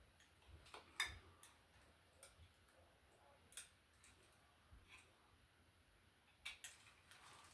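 Faint, irregular clicks and taps of hand work on metal electrical fittings, three of them sharper than the rest, as a screw on the MC cable's box connection is tightened.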